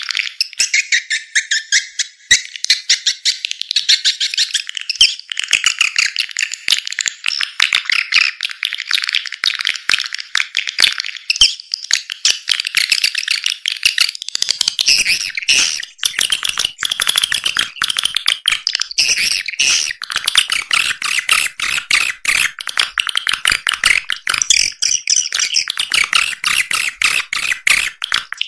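Swiftlet calling track: a dense, unbroken chatter of rapid high-pitched chirps and clicks from many swiftlets. It is a lure call of the kind played to draw swiftlets into a nesting house.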